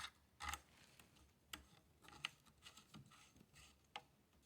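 Near silence with light metal handling: one short rasp about half a second in, then a few faint sharp clicks. The sounds come from the castle nut being turned onto the threads of an AR-15 buffer tube by hand.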